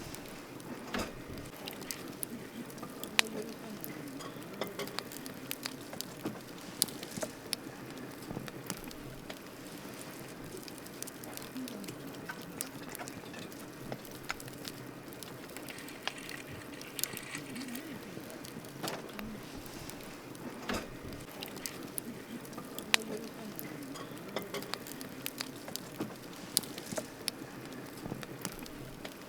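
Wood campfire crackling: frequent irregular sharp pops, a few louder snaps, over a steady low hiss.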